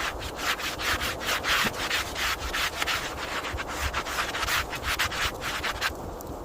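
Rapid, repeated rubbing or scraping strokes, about five a second, that stop about six seconds in.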